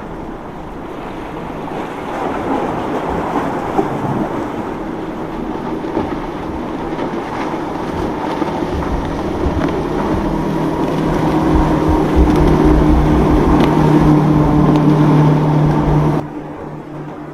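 Boat engines running through the inlet amid water and wind noise, with the engine hum growing louder as the boat comes close, then dropping off abruptly near the end.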